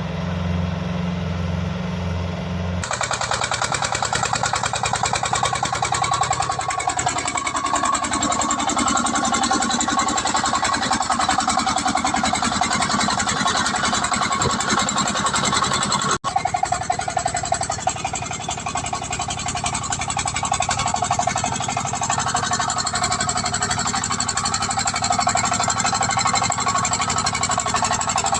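Small single-cylinder diesel engine of a two-wheel walking tractor running hard with a fast, even clatter, cutting out for an instant about two-thirds of the way through.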